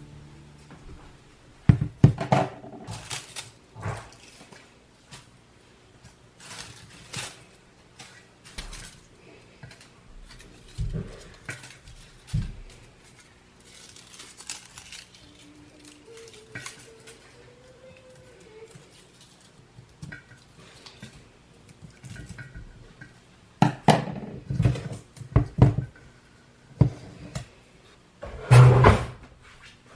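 Scattered knocks and clatters of things being handled, loudest about two seconds in and again near the end, with faint music underneath.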